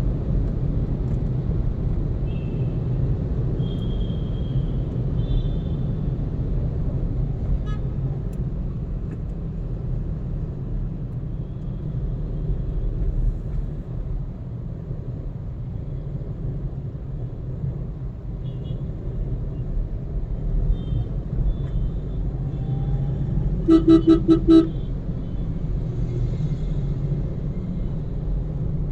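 Car driving in traffic: a steady low road and engine rumble, with faint horns now and then. About three-quarters of the way through, a nearby car horn gives a quick series of short honks.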